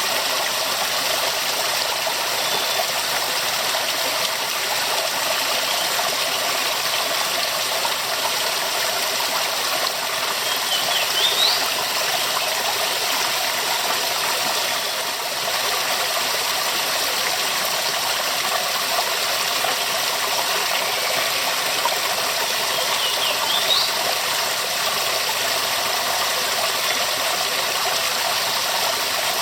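Waterfall rushing steadily, an even, unbroken wash of falling water. Two faint, brief high chirps sound over it, about a third of the way in and again near the end.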